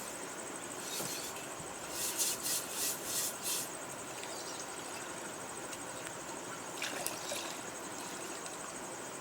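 Clay budgie nest pot being rinsed and scrubbed inside with water: a run of short rasping scrubbing strokes from about two to three and a half seconds in, and one more near seven seconds.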